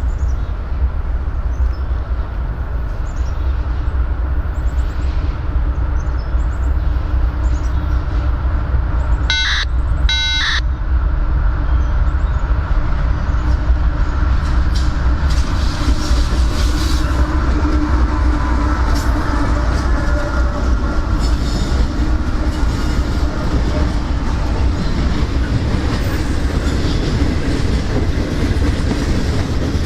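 A freight train rolls past with a steady heavy rumble and wheel clatter on the rails. Two brief high tones sound about a second apart, a little under halfway through.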